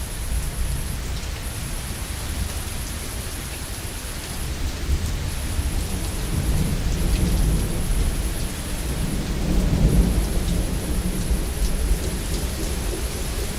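Steady heavy rain with rolling thunder underneath, the low rumble swelling twice, about halfway through and again a few seconds later.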